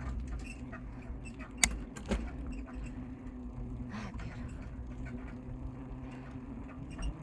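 Bicycle being ridden, creaking as it goes over a steady rumble, with a sharp click about one and a half seconds in; the bike is squeaky from having been left out in the rain.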